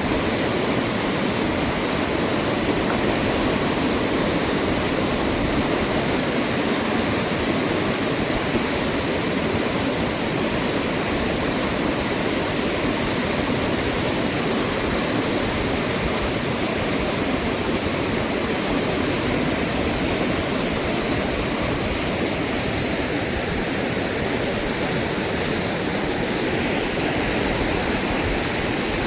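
Fast-flowing, rising river water rushing steadily.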